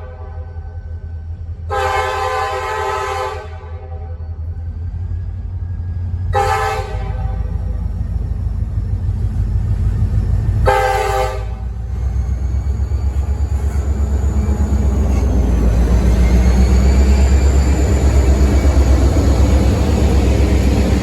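Kansas City Southern GP40-2LW diesel locomotive sounding its multi-note air horn: one long blast, then two short ones several seconds apart. After the last blast its engine rumble, with a steady high whine, grows steadily louder as the locomotive draws near.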